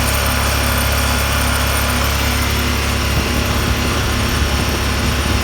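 Yamaha Wolverine R-Spec side-by-side's engine running steadily, getting slightly rougher about three seconds in.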